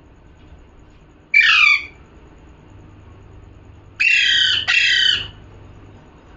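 Pet parrot giving three loud, harsh squawks, each falling in pitch: one about a second in, then two back to back a couple of seconds later.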